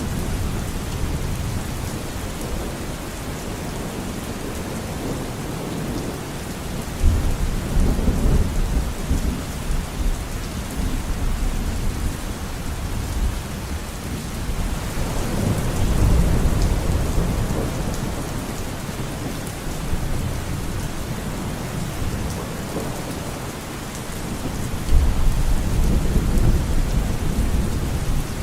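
Steady heavy rain falling, with low rumbles of thunder that swell up about a quarter of the way in, around the middle, and near the end.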